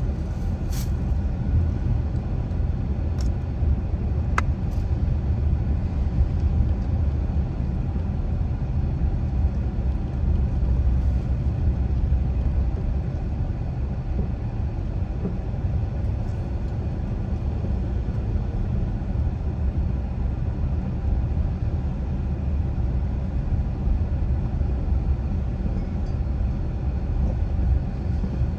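A car driving, with a steady low rumble of road and engine noise and a few faint clicks in the first few seconds.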